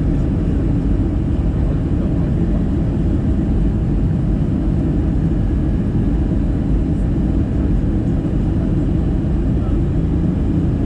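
Steady cabin rumble of an Airbus A320-214 with CFM56-5B engines, a low, even roar of engines and airflow heard from inside the passenger cabin.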